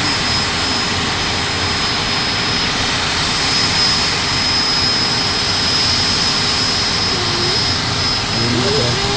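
Emergency medical helicopter's turbine engine and rotor running steadily at close range: a dense, loud whooshing rush with a constant high-pitched turbine whine.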